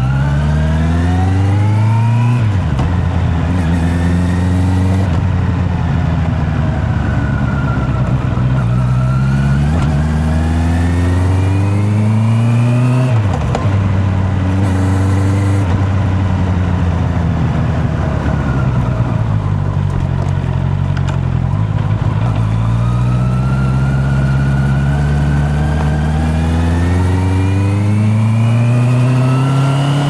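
Honda CB650R's inline-four engine accelerating through the gears: the revs climb steadily and drop sharply at upshifts about two and a half seconds in, at about thirteen seconds and right at the end. In the middle the revs fall away for several seconds as the bike slows, then rise again.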